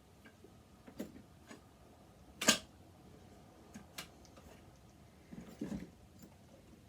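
A few scattered light clicks and taps of a screwdriver working at screws on a sewing machine being taken apart, with the loudest knock about two and a half seconds in.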